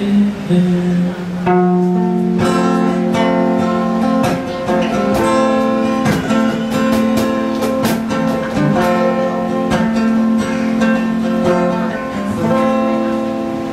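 Acoustic guitar strummed in an instrumental passage of a slow pop ballad, chords ringing out with regular strokes.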